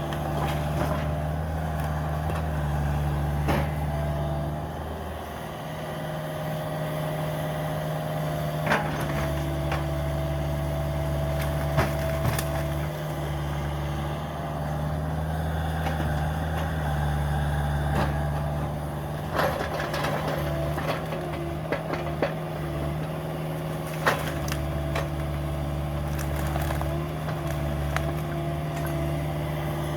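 Cat 305 mini excavator's diesel engine running steadily under load, with a higher hydraulic whine rising and dropping as the controls are worked. Several sharp cracks and crunches of demolition debris break over it.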